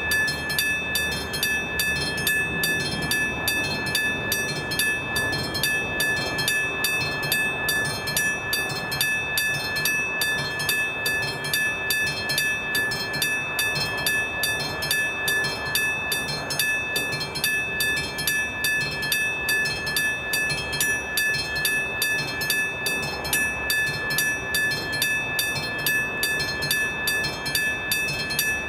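Level crossing warning bell at an AŽD 71 crossing ringing steadily, about three strokes a second, with a low rumble underneath.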